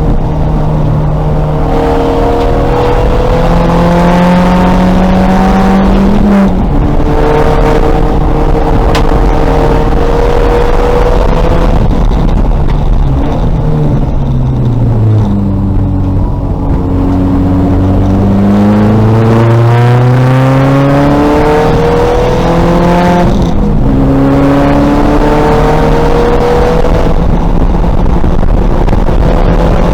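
2000 Volkswagen Golf race car's engine running hard, its pitch climbing through the revs with breaks at the gear changes. About halfway through the pitch falls as the car slows, then climbs again under acceleration.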